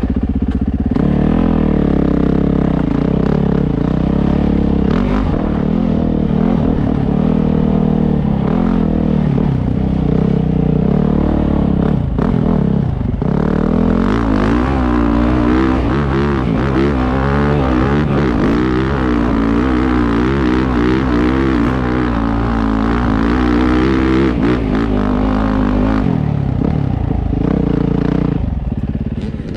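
Dirt bike engine running hard under load on a hill climb, loud and continuous, its pitch rising and falling with the throttle. The engine eases off about 26 seconds in.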